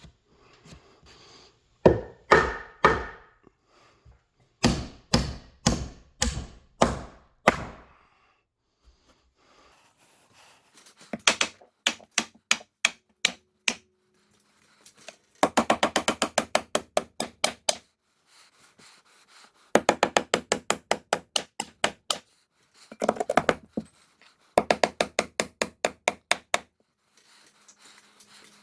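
A hammer driving nails into lumber, in groups of blows: a few slow, heavy strikes early on, then several quick runs of rapid blows.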